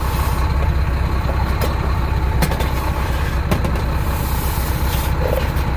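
Diesel semi truck engine idling steadily while it warms up, with a few short knocks of gear being stowed in the cab.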